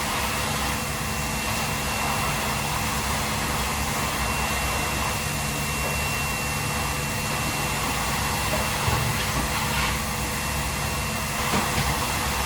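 Steady rushing noise of a running fan or motor, with a faint high whine held throughout.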